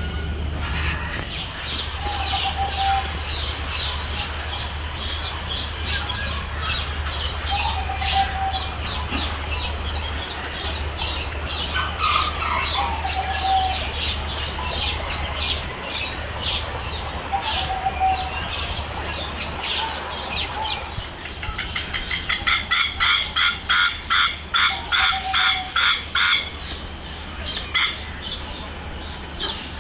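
Many birds chirping together, with one short call repeating every few seconds. About two-thirds of the way through, a loud rapid series of squawks runs for about four seconds, several a second. A steady low hum lies underneath.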